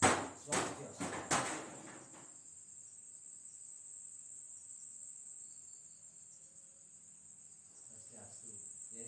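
Night insects chirring steadily in one high band. In the first two seconds, four loud, sharp, scratchy noises come in quick succession.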